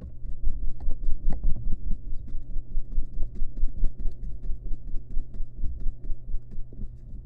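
Barn owl nestling flapping its wings and scrabbling on the wooden floor of its nest box: a rapid, irregular run of thumps and scratchy knocks, loudest in the first half and easing off toward the end.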